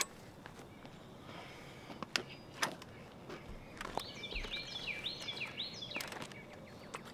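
Outdoor ambience with a bird singing a quick run of repeated down-slurred high notes about four to six seconds in, and a few scattered sharp clicks and knocks.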